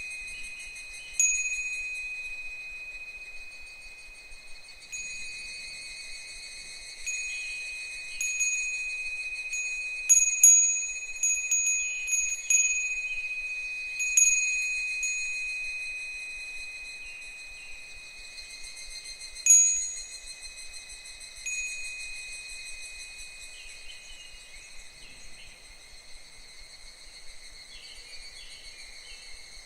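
Japanese wind chime (fūrin) ringing irregularly as the wind swings it: single clear strikes that ring on and fade, with a quick cluster of strikes in the middle. A steady high insect chorus goes on behind it.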